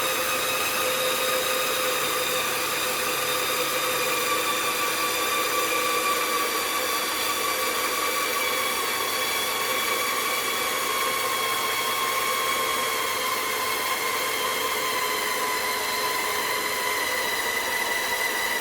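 CaDA M motor running with a steady whine whose pitch falls slowly and evenly: the motor slowing as the torque load on it is raised.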